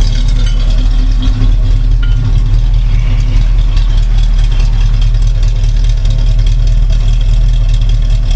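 1986 Oldsmobile 442's Olds 350 V8 idling steadily through a Pypes exhaust with an X-pipe and Pypes mufflers, sounding pretty good.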